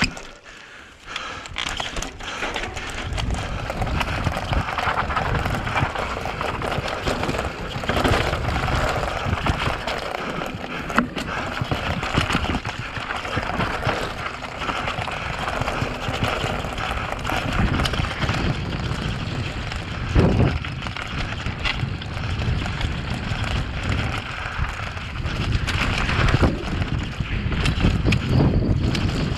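Mountain bike riding fast down a rocky trail: wind rushing over the microphone, with tyres and frame rattling over rocks and many short knocks. The noise picks up about two seconds in, and there is one sharper knock about twenty seconds in.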